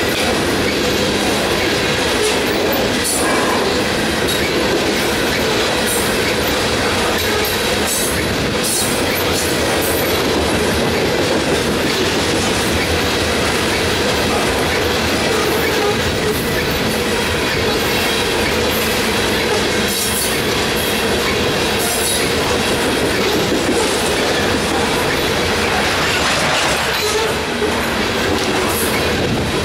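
Coal train of steel hopper cars rolling steadily past at a grade crossing, a continuous loud rumble of wheels on rail with clicks from the rail joints.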